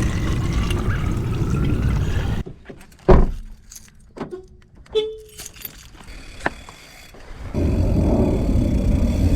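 Low rumbling noise of a car on the move. It cuts out, a loud thud follows, then small clicks and jingling like keys, and the rumble comes back near the end.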